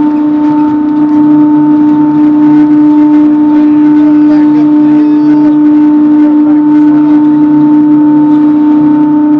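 Sawmill with its debarker running: a loud, steady, unchanging hum.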